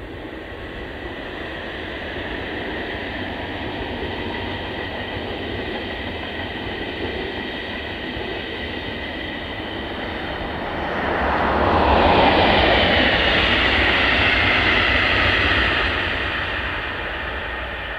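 Electric trains passing at speed with steady rushing wheel-and-rail noise. First is an IC2 double-deck Intercity hauled by a DB class 146 electric locomotive. About eleven seconds in a red double-deck regional train passes, louder, and the noise then fades near the end.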